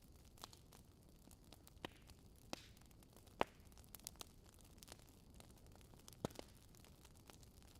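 Burning logs crackling in a fireplace: irregular sharp pops and snaps over a faint hiss, the loudest pop near the middle.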